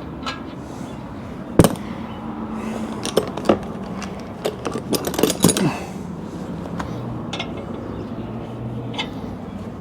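Metal hand tools clinking and clanking: a wrench and sockets knocking against each other and the steering parts. One sharp clank comes about a second and a half in, then a run of quicker clinks a few seconds later.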